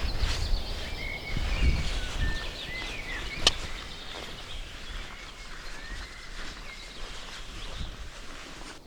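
Several small birds chirping and calling in short high notes and quick sweeps. There is a low rumble in the first two seconds or so and a single sharp click about three and a half seconds in.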